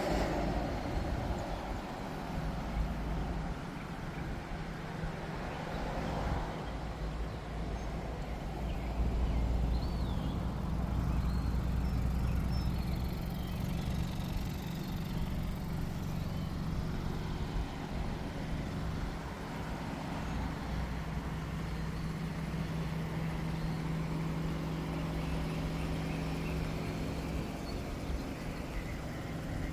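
2018 Toyota Camry SE's 2.5-litre inline four-cylinder engine running at a steady idle, a little louder low down for a few seconds about a third of the way in.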